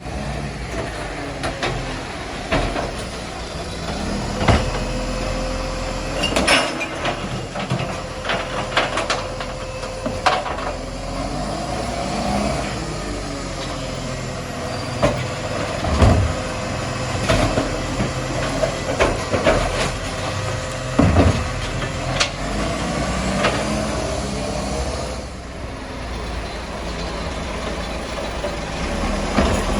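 Garbage truck running with a steady engine drone and a held whine that bends up and down in pitch now and then, broken by a series of sharp knocks and bangs.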